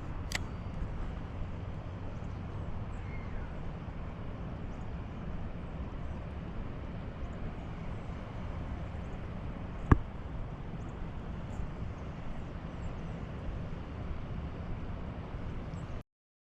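Steady rush of high water pouring through a flooded spillway, deep and unbroken. A faint click near the start and one sharp, loud click about ten seconds in.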